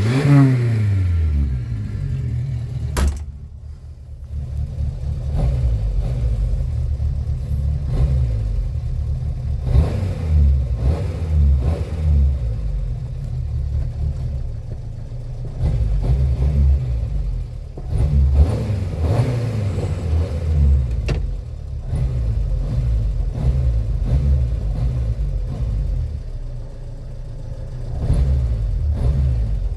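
Renault 4's four-cylinder petrol engine running after being flooded, revved again and again on the gas pedal so the revs rise and fall every couple of seconds. A sharp click about three seconds in is followed by a brief drop in revs.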